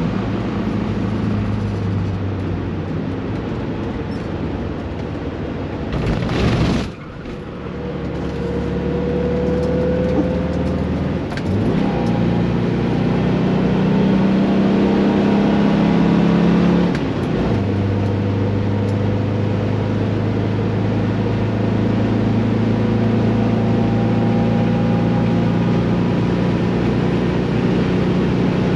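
Standard 1600cc Volkswagen Beetle's air-cooled flat-four engine running hard on a race track. It holds a steady drone whose pitch shifts a few times, with a brief loud rush of noise about six seconds in followed by a short dip.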